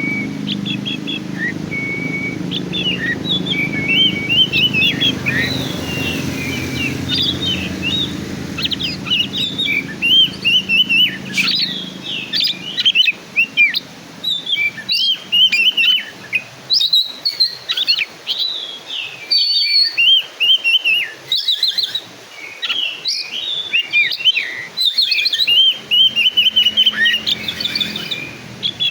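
Oriental magpie-robin (kacer), black-and-white form, singing a continuous, varied song of quick whistled phrases, rising and falling notes and chirps, with short gaps between phrases in the second half.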